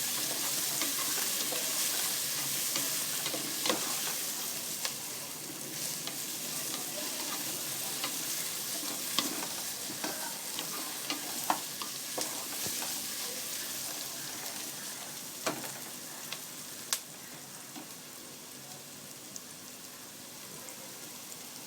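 Chopped onions sizzling as they fry in hot oil, stirred with a spatula that clicks and scrapes against the pot now and then. The sizzle grows gradually quieter toward the end.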